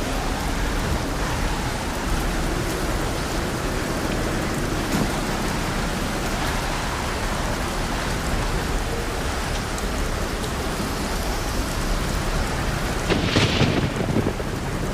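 Steady light rain and wind with thunder rumbling. A louder burst comes near the end.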